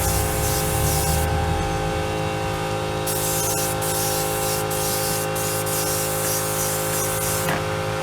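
Compressed-air paint spray gun hissing in bursts while spraying black paint on a truck wheel. It stops about a second in, starts again near three seconds and breaks off briefly a few times after that. A steady hum runs underneath.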